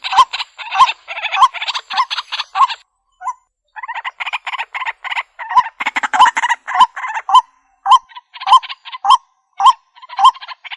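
White-breasted waterhen calling: a fast run of rasping notes, each with a ringing tone at its core, about two a second. There is a brief break about three seconds in.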